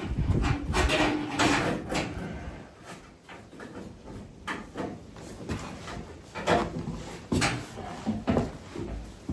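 Irregular scrapes, knocks and rattles of metal parts being handled as a new brake line is worked into place along the car's front end.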